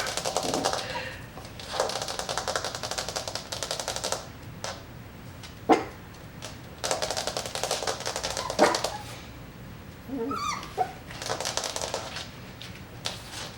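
Fingernails scratching and tapping on a plastic dog kennel, a rapid ticking that comes in bursts of one to two seconds, with a few single sharp taps between them. A puppy gives a short whine about ten and a half seconds in.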